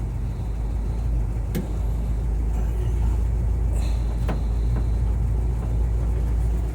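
1960s Ford fire truck's engine idling steadily in neutral, a low rumble with a couple of sharp knocks.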